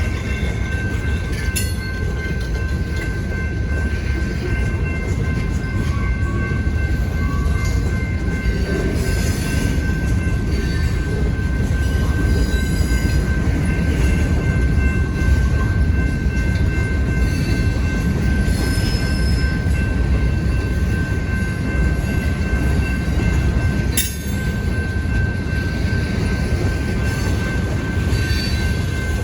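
A freight train rolling past with a steady heavy rumble and a constant high whine, with intermittent higher wheel squeal above it. Two sharp clicks stand out, one about two seconds in and one near the end.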